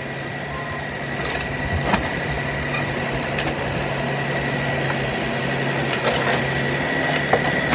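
Steady engine-like running noise from a toy vehicle, with a thin high whine and a low hum and a few light clicks; it starts and cuts off abruptly.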